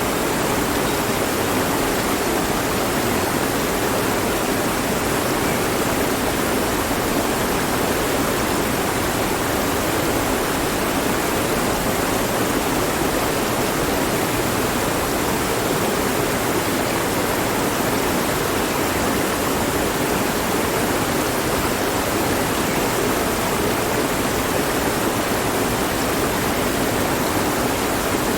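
Mountain stream flowing: a steady, even rush of water with no change in level.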